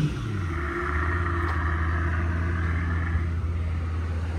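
Car engine dropping from a rev flare just after start-up and settling into a steady idle.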